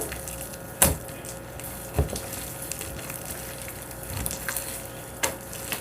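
Sticky slime being kneaded and squeezed by hand, with soft crackling and a few sharp wet pops. The slime has dish soap worked into it to cut the stickiness.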